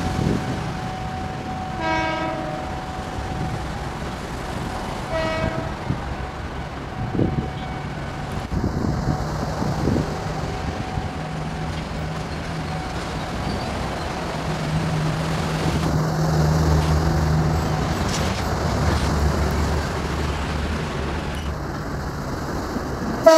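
Electric commuter train (KRL EMU) sounding two short horn toots about 2 and 5 seconds in, then its running rumble growing as it approaches along the track, with another toot right at the end.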